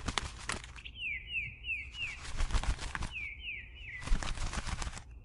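Small songbird singing, two quick runs of falling chirps about two seconds apart, over light rustling and clicking.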